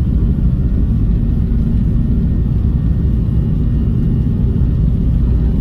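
Steady low rumble of a car on the move, with no change in pitch or level.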